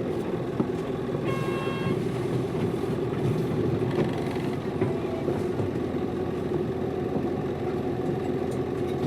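Diesel engine of a Hino Liesse (PB-RX6JFAA) small bus running steadily under way, heard from inside the passenger cabin. A brief electronic beep sounds about a second and a half in.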